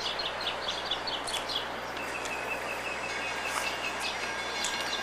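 Birds chirping: a quick run of repeated high chirps for about the first second and a half, then a thinner, rapid string of higher notes, over a steady outdoor background hiss.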